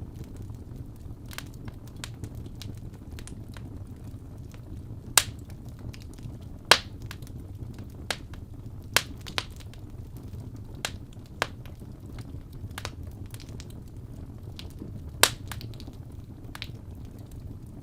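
Wood fire in a fireplace crackling, with irregular sharp pops, the loudest about five, seven, nine and fifteen seconds in, over a steady low rumble.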